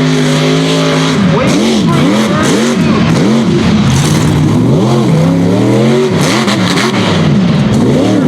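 Unlimited-class mega truck engine held at steady high revs, then, about a second in, revved up and down over and over, about twice a second, as the throttle is worked on the course.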